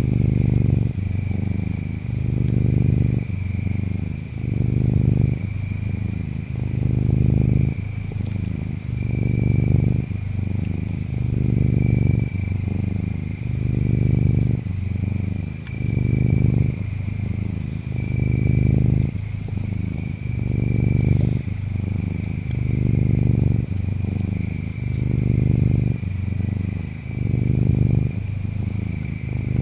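Domestic cat purring close up, a low rumble that swells and fades about every two seconds with its breathing. Insects chirp throughout, a steady thin trill with bright high chirps coming and going over it.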